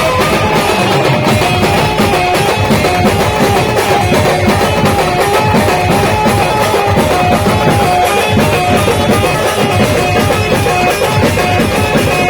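Maharashtrian band playing loud music: a fast, dense drum beat under a melody line that steps between a few repeating notes.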